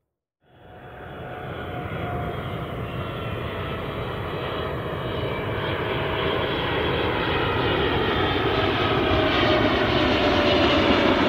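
Jet airliner's engines, cutting in suddenly about half a second in and growing steadily louder, with faint whining tones that slide slowly down in pitch.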